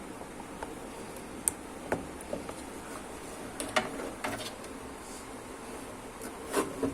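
Scattered short clicks and light knocks, with some rubbing, of hands working a washing machine's control board and pushing wiring connectors into its sockets, over a steady faint hiss.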